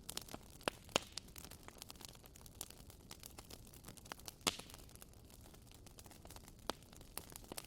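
Wood fire crackling in a fireplace: irregular sharp pops and snaps over a soft steady hiss, with the loudest pops about a second in and again about four and a half seconds in.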